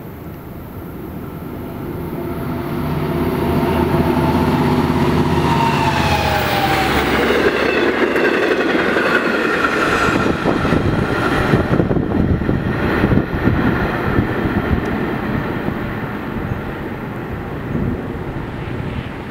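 EMD DE30AC diesel locomotive passing at speed, its engine note dropping in pitch as it goes by. It is followed by Kawasaki C-3 bilevel coaches rolling past with rapid clicking of wheels over the rail joints, easing off near the end.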